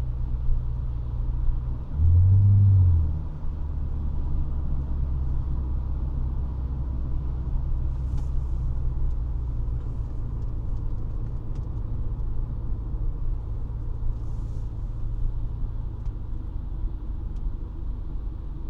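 The 3.5-litre V6 of a 1999 Honda Legend runs at a steady cruise, a low exhaust rumble under road noise. About two seconds in, a louder low drone surges for roughly a second, then settles back.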